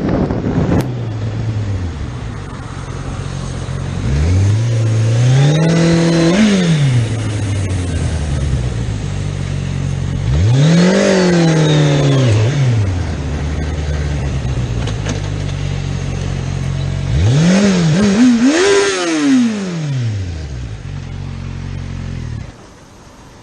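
Motorcycle engine running and revving in three surges, each a quick rise and fall in pitch, with a steady engine note between them. The sound drops off sharply shortly before the end.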